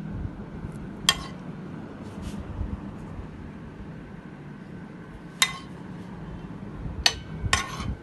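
A utensil clinking sharply against a plate a few times while food is plated, the loudest clinks about a second in and twice near the end, over a steady low hum.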